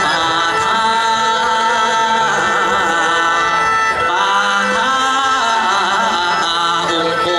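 Live Isan folk music from a pong lang band, with a voice singing over held, sustained tones.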